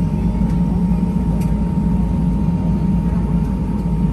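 Steady low rumble of an Airbus A320-200 heard from inside the passenger cabin, with a constant thin whine above it and a couple of faint ticks.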